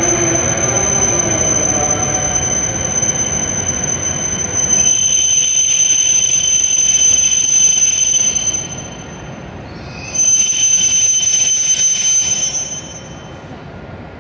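A W7-series Shinkansen train slowing to a stop at a platform: a low rumble at first, then a steady high-pitched squeal as it brakes. The squeal drops out briefly about nine seconds in, comes back, and dies away about thirteen seconds in as the train comes to rest.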